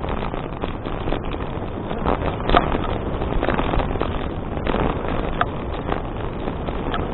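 Wind rushing over an action camera's microphone on a moving bicycle, with frequent small knocks and rattles throughout; one sharper knock about two and a half seconds in.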